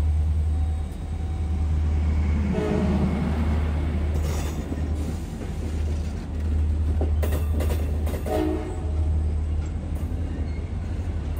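CSX passenger train rolling slowly under a constant low rumble. Two short horn blasts sound, about three seconds in and again about eight seconds in, with some brief wheel squeal and clatter between them.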